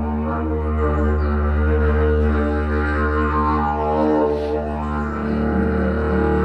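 Didgeridoo played in a hand-carved tunnel: one steady low drone held without a break, its overtones shifting and swelling above it.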